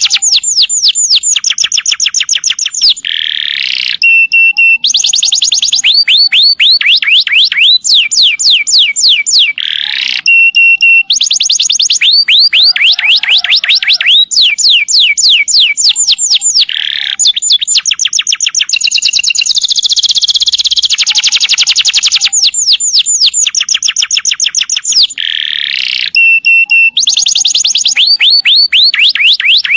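Domestic canary singing a long, unbroken rolling song: fast trills of falling notes run one after another, broken by short held whistled tones.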